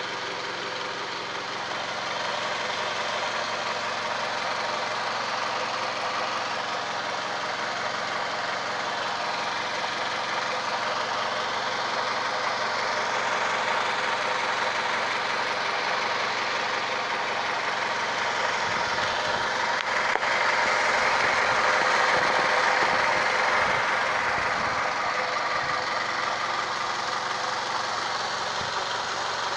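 2007 Scion tC's 2.4-litre four-cylinder engine idling steadily, heard close up under the hood. It grows somewhat louder for a few seconds about two-thirds of the way through.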